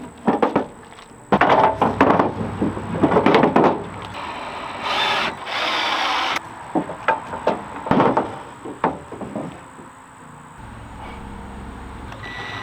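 Wooden boards being handled: a run of irregular knocks and short scraping sounds as boards are set down and slid against each other, busiest in the first few seconds and sparser near the end.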